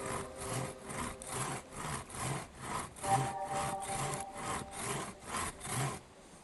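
Hand saw cutting through wood in steady back-and-forth strokes, about two and a half a second, stopping near the end.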